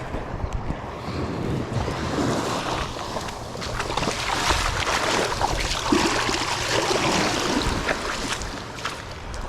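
Small surf washing on the shore with wind on the microphone, with scattered small knocks and clicks of handling.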